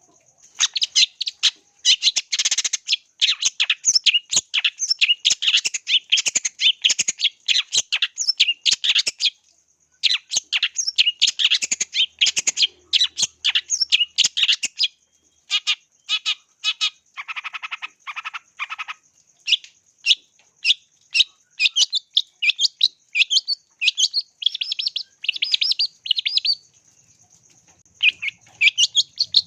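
Long-tailed shrike (cendet) singing a fast, chattering series of sharp high notes. It pauses briefly about a third of the way in and again near the end, and gives one lower, fuller call about two-thirds through. A thin steady high tone runs underneath.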